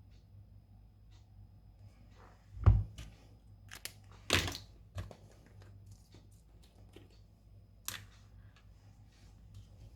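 A few knocks and light clicks of a smartphone and tools being handled on a repair bench, the loudest a thump about two and a half seconds in, over a low steady hum.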